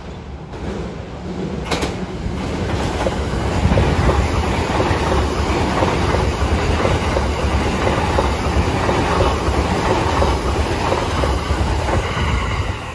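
E353 series limited express electric train running through a station at speed. Its running noise rises over the first four seconds as it nears, then holds loud and steady as the cars pass close by.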